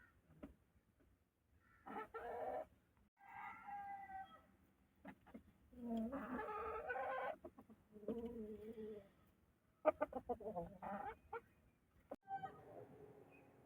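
Aseel chickens calling: four pitched calls over the first nine seconds, the longest lasting about a second and a half, followed around ten seconds in by a quick run of sharp taps.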